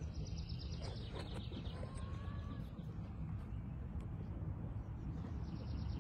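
A small bird singing a rapid high trill near the start and again near the end, with a short whistled note in between, over a steady low rumble of outdoor background noise.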